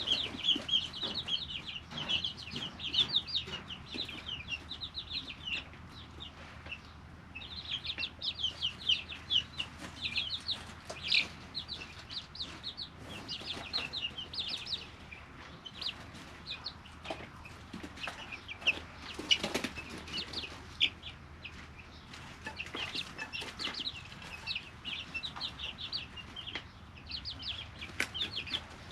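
Three-week-old chicks peeping: rapid runs of short, high cheeps from many birds, easing off in a few brief lulls, with a few sharp clicks among them.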